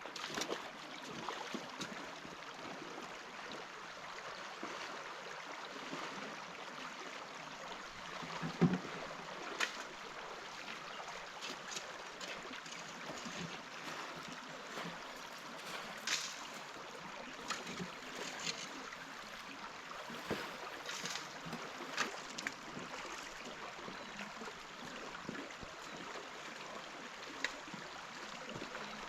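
River water flowing steadily, with scattered sharp clicks and knocks of stones and gravel being handled, the loudest about nine seconds in.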